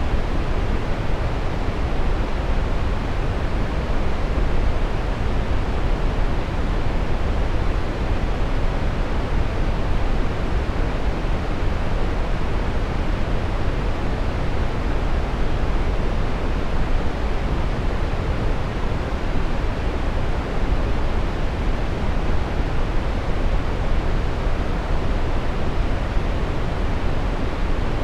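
Steady, unchanging brown noise: an even hiss weighted heavily toward the low end, with no events or variation.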